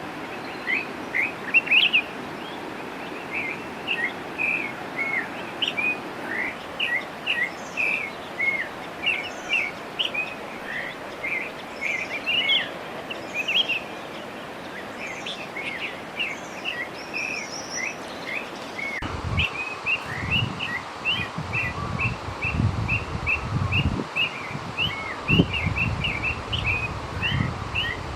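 Northern oriole calling: a steady run of short, quick chirps. About two-thirds of the way through the recording changes and low gusty rumbles of wind on the microphone join the chirps.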